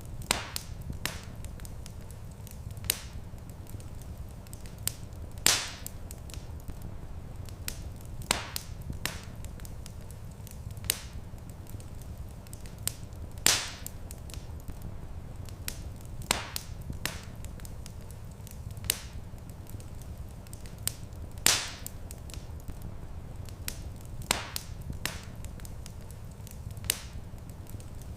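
Wood fire crackling in a fireplace: irregular sharp pops and snaps, with a few louder pops about every eight seconds, over a steady low rumble.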